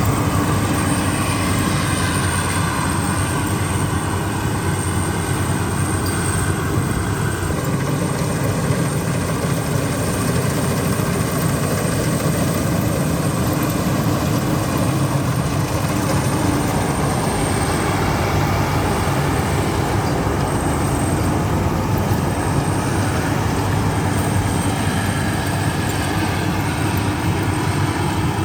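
Maxxi Bimo rice combine harvester running steadily at work, its engine and machinery giving a constant noise with a thin high-pitched whine over it.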